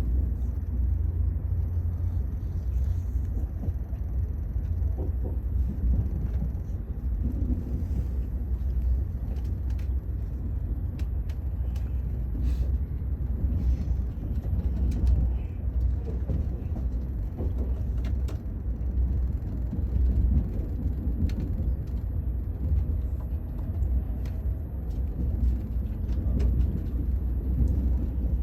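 Steady low rumble of a moving vehicle, with faint scattered clicks and rattles over it.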